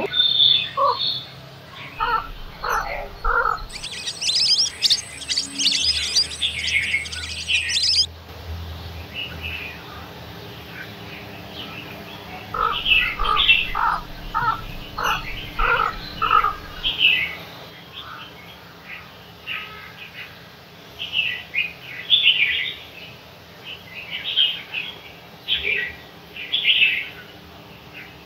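Birds chirping: many short calls in quick runs, with a denser, higher burst of chirping from about four to eight seconds in.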